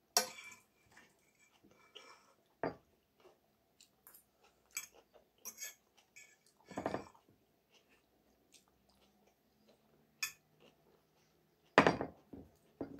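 Close-miked eating sounds: chewing and small mouth noises, broken a few times by a fork clinking and scraping in a metal bowl.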